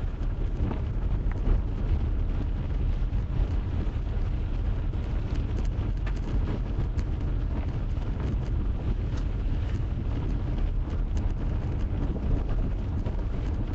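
Steady road and engine rumble heard from inside a moving car's cabin, with some wind noise.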